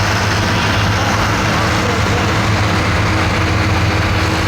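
Heavy engine idling steadily with a constant low hum, over a loud, even background din.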